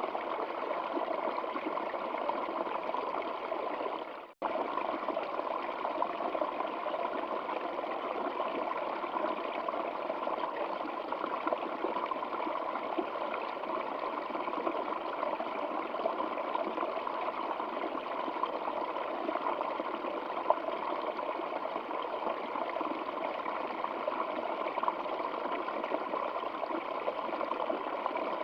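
Stream water running and trickling steadily. About four seconds in it fades out briefly to near silence and comes straight back.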